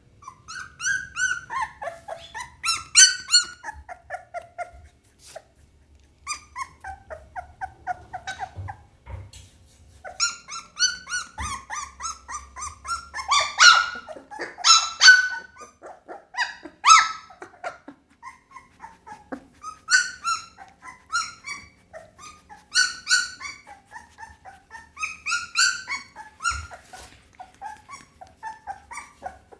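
Pit bull puppy crying in strings of short, high-pitched whines and yelps, many calls falling in pitch, with brief pauses between the strings.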